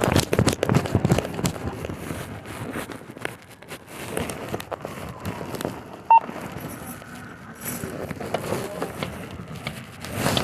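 Running footsteps and gear rattling and rubbing against a body-worn camera, dense for the first two seconds and again near the end. There is one short beep about six seconds in.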